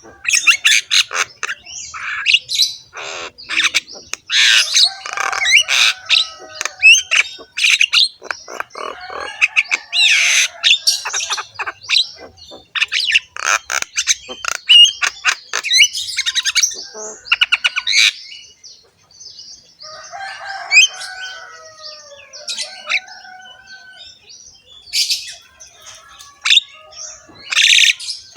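Javan myna (jalak kebo) singing continuously in a harsh, varied chatter of rasping notes, rapid clicking rattles and short whistles.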